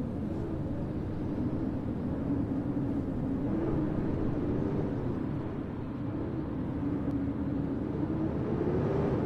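Steady snowstorm wind noise, low and rumbling, with a faint wavering howl.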